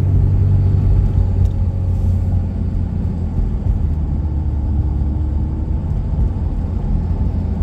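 Steady low rumble of a moving pickup truck, engine and tyres on the road, heard from inside the cab.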